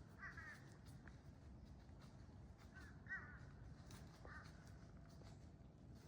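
A crow cawing faintly, about four short caws spread across a few seconds.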